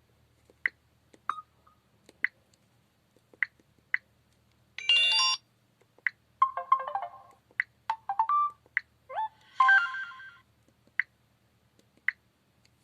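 Samsung Delphi mobile phone: short key beeps at irregular intervals, with four brief alert melodies, each about a second long, playing between about five and ten seconds in, as its message tones are previewed.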